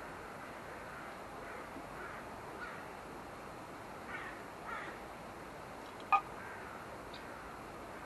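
Birds calling over a steady rushing background: a few short calls in the middle, then one sharp, much louder call about six seconds in.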